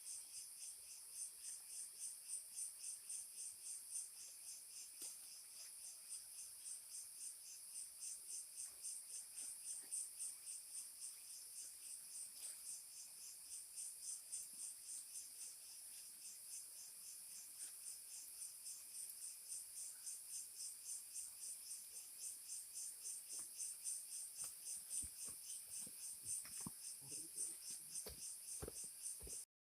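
A chorus of forest insects chirping steadily in high, evenly repeated pulses, about three a second. A few faint ticks and rustles come in near the end.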